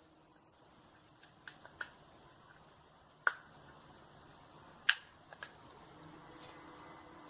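A handful of sharp clicks or taps over faint hiss, the two loudest about three and five seconds in. Near the end a low, steady, droning hum of several pitched tones sets in.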